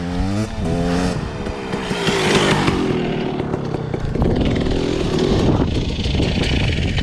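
Dirt bike engine revving hard, its pitch rising quickly in the first second or so, then running at high revs with a hissy wash of noise over it.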